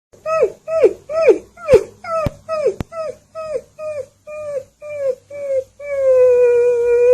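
A dog giving a quick run of short yips, each dropping in pitch, two or three a second, then one long steady howl near the end.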